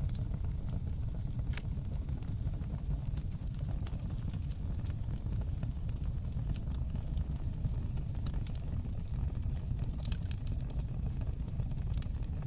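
Fire in a fireplace crackling: scattered sharp pops over a steady low rumble of the flames, with a louder pop about a second and a half in and a cluster of pops about ten seconds in.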